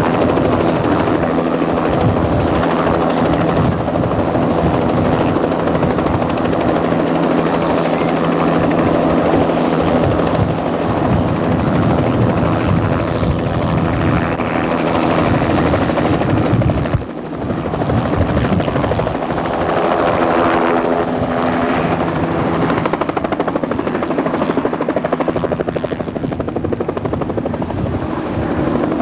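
Helicopter running steadily, its engine and rotor making a loud continuous drone with steady tones, briefly dipping in level a little past halfway.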